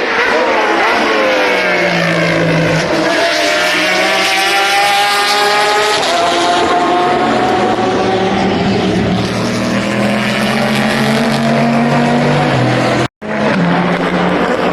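Endurance racing car engines at high revs as cars pass, their pitch gliding down and shifting as they go by. The sound cuts out for a moment about thirteen seconds in, then another car's engine is heard.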